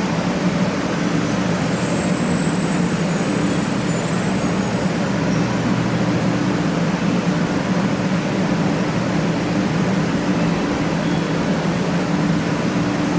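Steady rushing noise with a low mechanical drone, typical of a Shinkansen station platform with train or ventilation equipment running. A faint high whine sounds in the first few seconds.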